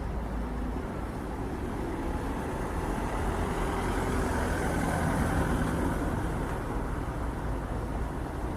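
A train running past, its rumble swelling a little louder around the middle and easing off again.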